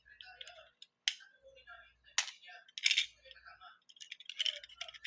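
Plastic Lego bricks clicking and clattering as they are handled. There are irregular sharp clicks, several loud ones, and a quick run of rattling near the end.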